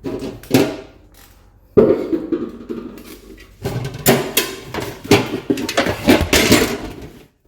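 Irregular knocks and clatter of kitchen items being handled and set down in a cupboard: a couple of knocks at first, then a dense run of clattering in the second half.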